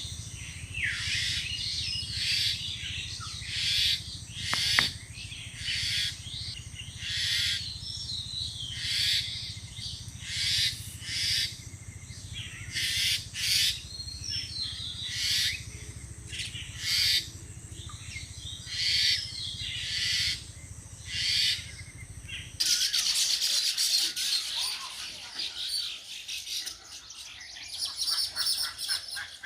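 Birds chirping in short repeated calls, about one a second, over a steady low hum. About three quarters of the way through, the hum stops abruptly and a denser, continuous high chirping takes over.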